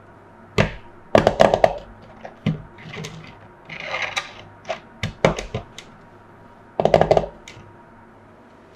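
Small hard plastic parts being handled: a series of clicks and clattering knocks, with a short rustle about four seconds in.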